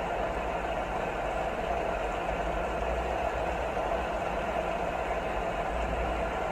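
Steady rain noise: an even, unbroken hiss with a low rumble beneath it.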